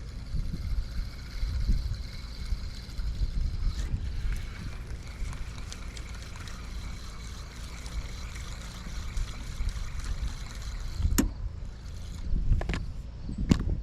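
Wind buffeting the microphone beside a river, a low uneven rumble with faint water sound, under a faint steady high-pitched hum. Three sharp clicks come near the end.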